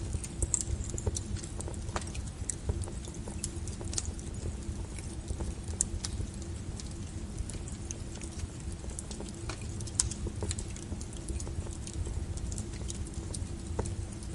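Wood fire burning: a steady low rush of flame with irregular sharp crackles and pops from the burning logs.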